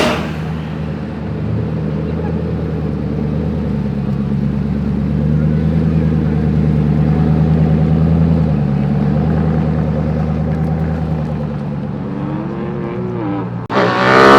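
A car engine running steadily at low revs as it pulls away. Near the end a much louder engine revs up sharply, rising in pitch.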